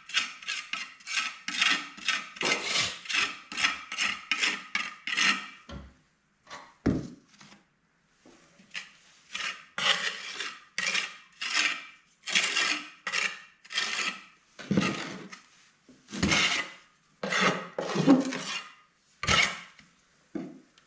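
Repeated hand scraping or rubbing strokes on a hard surface: fast, about three strokes a second, for the first six seconds, then after a short pause slower, about one stroke a second.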